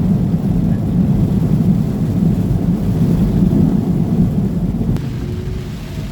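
Steady low rumble of a pickup truck heard from inside the cab while driving in the rain: engine and tyre noise on a wet road. It eases a little about five seconds in.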